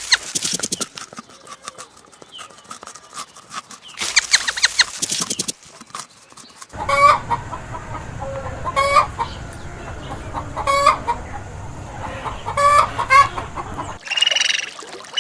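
Chickens clucking in short repeated calls, in several separate passages that start and stop abruptly. A steady low rumble runs under the middle stretch.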